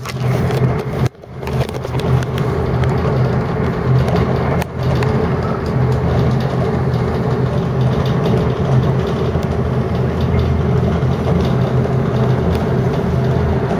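Steady running noise of a train heard from inside the passenger carriage, a low drone with rumble over it. The sound briefly drops away about a second in and again near five seconds.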